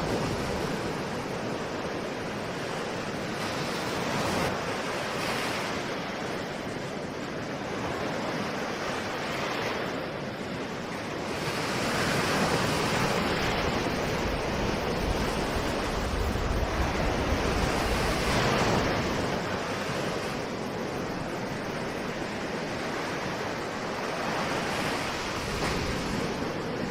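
Ocean surf: a steady rush of waves washing in, swelling and easing every few seconds, with a longer, louder surge about halfway through.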